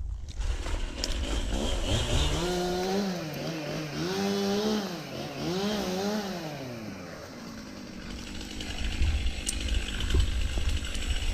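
Two-stroke chainsaw revving, its pitch rising and falling several times before it eases off about seven seconds in, over a steady low rumble.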